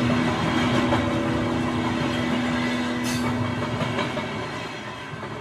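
Train passing close by, a steady rumble with rail clatter that slowly fades away, and a brief hiss about three seconds in.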